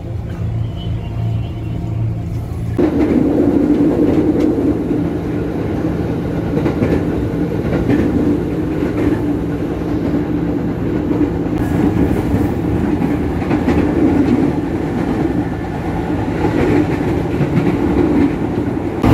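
KRL Commuter electric train running along the line, heard from inside the carriage: a steady rumble of wheels on the rails. It gets suddenly louder about three seconds in and stays that way.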